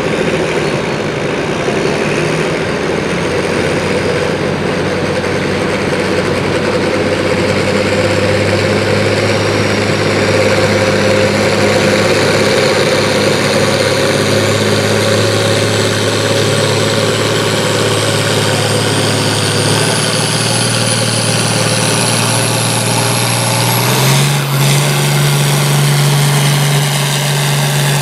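A pulling vehicle's engine running hard and steadily under load, with a thin high whine climbing slowly in pitch. Near the end the engine note drops suddenly and settles into a lower, steady running sound, as the throttle comes off at the end of the pull.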